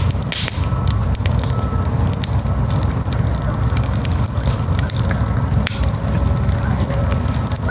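Campfire crackling, with frequent sharp pops from the burning wood over a steady low rumble.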